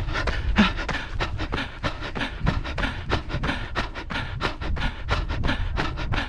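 A runner's hard, rapid breathing while running, a quick run of short breaths and strides, several each second.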